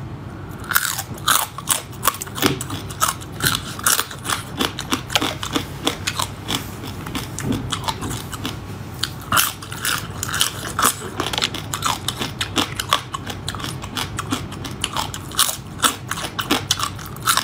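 Close-up crunching and chewing as small whole crabs in soy marinade are bitten into, their shells cracking between the teeth in a steady run of sharp crackles.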